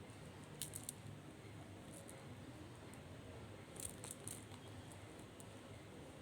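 Quiet room tone with a few faint, short clicks in two small clusters, one about a second in and another near the middle.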